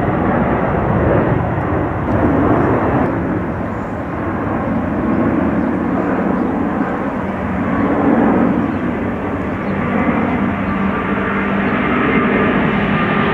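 Airbus A380 jet airliner's four engines running loud during a flying display, a steady deep rush of jet noise that swells and eases every few seconds.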